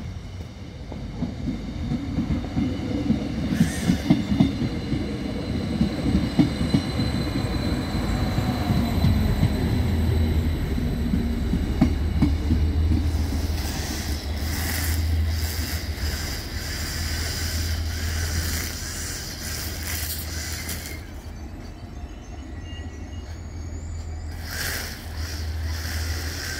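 Arriva Stadler GTW diesel railcar arriving at a station and passing close by. Its wheels rumble heavily over the rails in the first half, under a steady engine hum. Thin high squeals and hissing from the brakes and wheels follow as it slows to a stop.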